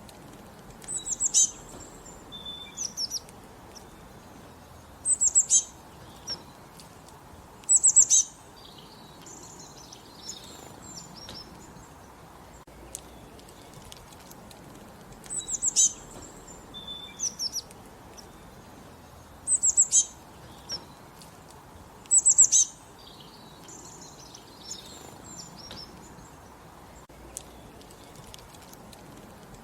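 Songbirds singing: a loud, high phrase of quick descending notes comes six times, a few seconds apart, with softer chirps between. A steady low hiss runs underneath.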